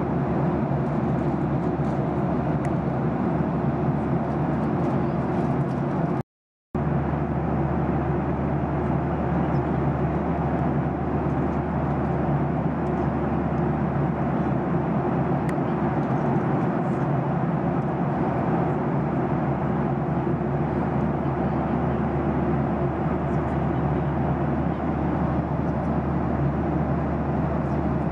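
Jet airliner cabin noise in flight: a steady rush of engine and airflow noise with a low, even hum. The sound cuts out completely for a split second about six seconds in.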